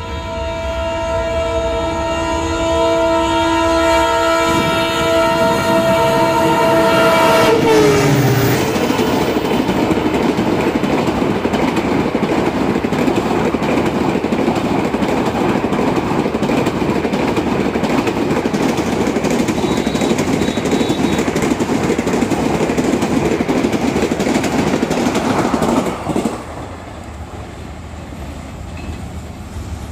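An Indian Railways express train's horn sounds a long, steady multi-tone chord for about eight seconds, its pitch dropping as the locomotive passes. Then the coaches rush past at speed with a loud, steady rumble of wheels on rails, which falls away suddenly near the end as the last coach clears.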